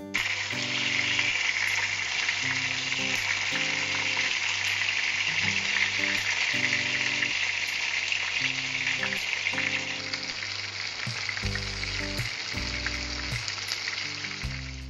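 Minced-chicken lyulya kebabs on wooden skewers frying in sunflower oil in a pan: a steady, dense sizzle that shifts a little higher about ten seconds in. A low, stepping background melody plays underneath.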